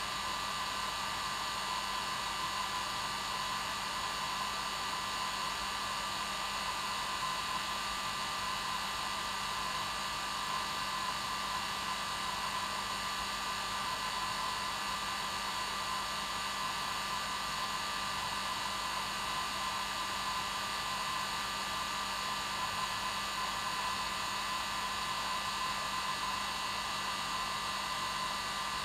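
Hair dryer running steadily on its normal setting: a constant whooshing rush of air with a steady motor whine, played as white noise to help a baby sleep.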